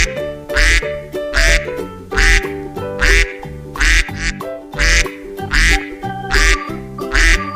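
Duck quacking over and over at an even pace, about once every 0.8 s, over cheerful children's background music.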